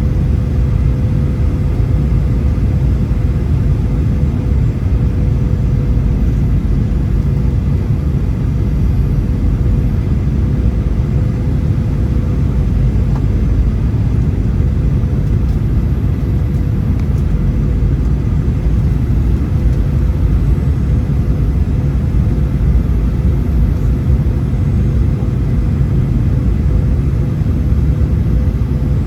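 Boeing 737 cabin noise: a steady, even engine and airflow rumble heard from inside the cabin, with a thin steady whine running through it.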